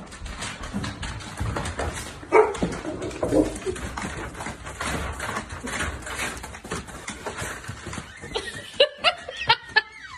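Dog whining and barking excitedly, with a run of short high cries near the end.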